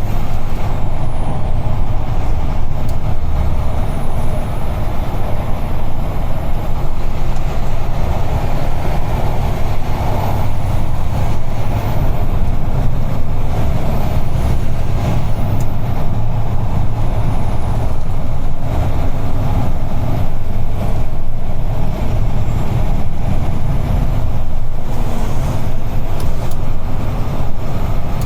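UD Trucks Quon heavy truck on the move, heard from the cab: the diesel engine and road noise make a steady low rumble.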